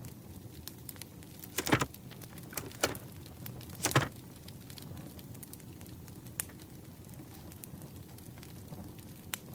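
Campfire crackling: a steady low rumble with fine scattered pops. Over it come a few louder, short handling noises of diary decorating, the strongest about two and four seconds in.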